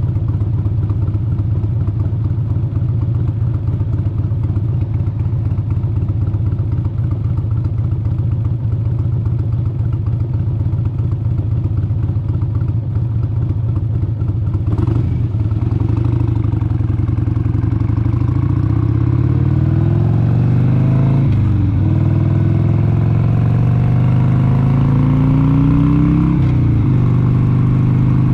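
1996 Harley-Davidson XLH883 Sportster's air-cooled Evolution V-twin running on the road. It holds a steady cruising note for the first half, then the revs climb, drop back sharply twice as it shifts up, and settle into a steady, slightly louder run.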